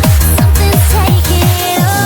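Sped-up nightcore version of an electronic dance track: a fast, steady kick drum under held synth melody notes. The deep bass drops out near the end.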